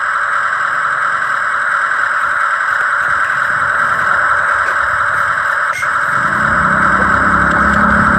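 Steady high-pitched whine of a radio-controlled construction machine's motor and hydraulics, with a brief click just before six seconds in. A lower engine-like rumble joins about six seconds in.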